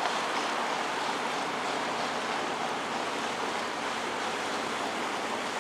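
Canal tour boat under way: a steady rushing noise of water and motor.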